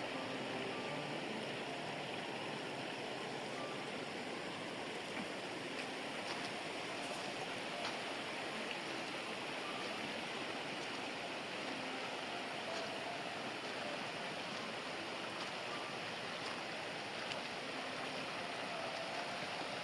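Steady rush of running water from a stream, with a few faint clicks.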